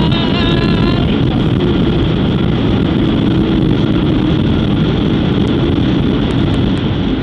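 Loud, steady roar of an airliner's jet engines and rushing air heard inside the cabin, with a wavering whine in the first second.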